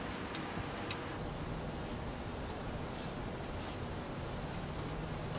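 A small bird giving four short, high chirps about a second apart, the first the loudest, over a steady background hiss. A few faint clicks in the first second.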